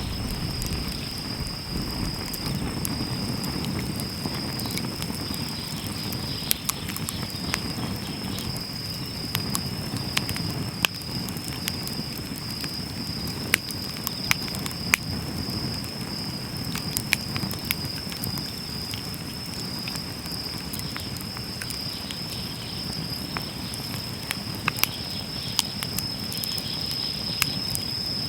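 Wood fire burning with a low rumble and frequent scattered crackles and pops. A steady high-pitched insect trill, like crickets, runs underneath.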